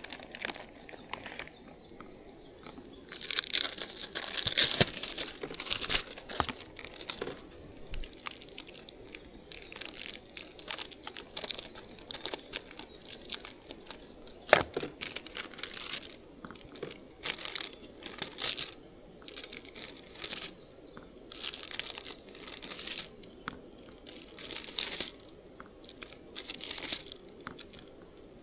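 Rustling and crinkling of something being handled, in irregular short bursts, with a longer stretch about three to six seconds in and a sharp click about halfway through.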